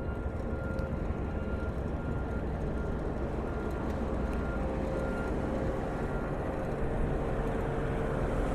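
Wind buffeting the phone's microphone in a steady low rumble, over the hum of road traffic, with a faint steady whine coming and going.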